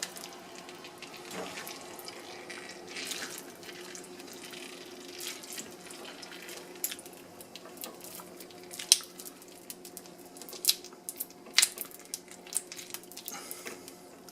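Heated uncapping knife melting wax cappings off a honey frame: scattered crackling and dripping ticks, more frequent in the second half, over a faint steady hum.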